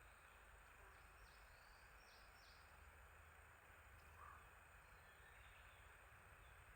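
Faint outdoor ambience: a steady hiss with a few short, high, downward-sweeping bird chirps between about one and three seconds in, and one brief lower call about four seconds in.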